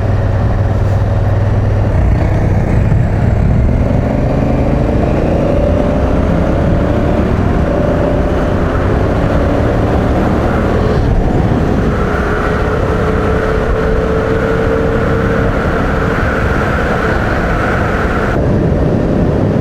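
Adventure motorcycle being ridden at speed, its engine running steadily and rising gradually in pitch a few times as it accelerates, over a heavy low rumble of wind.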